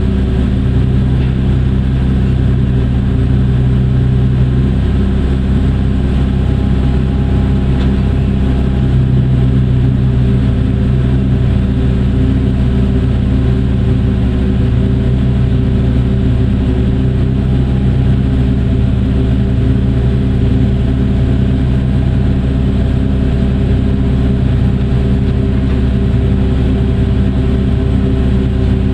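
Heavy mining machinery's diesel engine running steadily with a deep, even drone, most likely the Hitachi EX2600 excavator at work.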